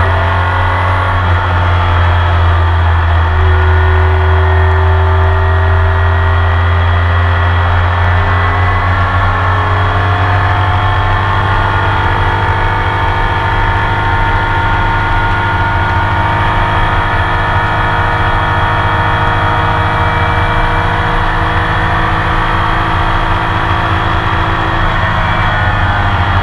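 Onboard sound of a Porsche 911 RSR's flat-six racing engine pulling hard, its note rising and falling slowly as the car is driven on track.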